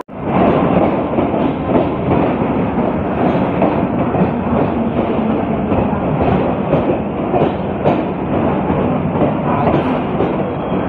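Passenger train coaches running along the platform: a steady, loud train noise with many short wheel clicks.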